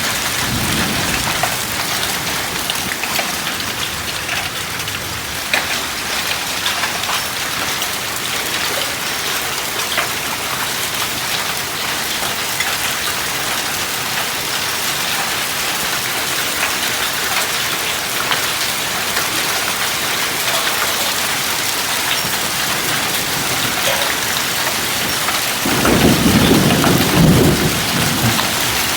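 Heavy hailstorm: a dense, steady hiss of rain with many small ticks of hailstones striking surfaces. About three seconds before the end, a louder low rumble swells and fades.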